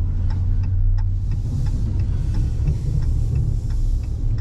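Steady low rumble of engine and road noise heard inside the cab of a 2022 Ram 1500 pickup while driving, with a few faint ticks.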